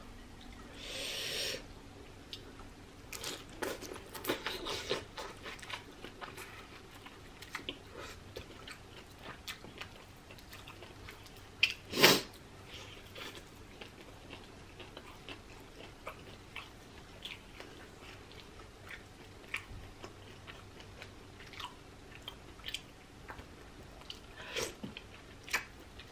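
Close-up eating sounds of someone eating shrimp and rice by hand: chewing, biting and small wet mouth clicks scattered throughout. A noisy patch comes about a second in, and one sharper knock comes about twelve seconds in.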